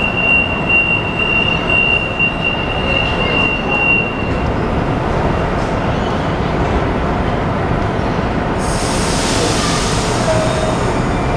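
Sydney Trains Waratah double-deck electric train at a platform: a steady high warning tone sounds for about the first four seconds while its doors close, over the train's steady running noise, and a hiss of air starts about three-quarters of the way through.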